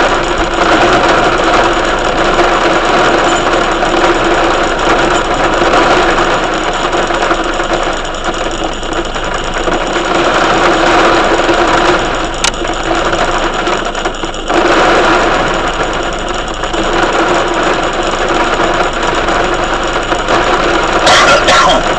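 Heavy thunderstorm rain drumming steadily on a hard surface, a dense, loud rattle that eases briefly a little past the middle.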